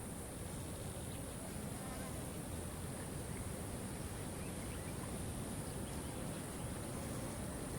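Steady rush of falling water with a continuous high-pitched insect buzz over it, and a few faint short bird chirps.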